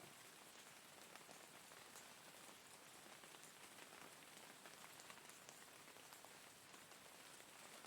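Faint, steady rain falling, an even hiss with many small drop ticks scattered through it.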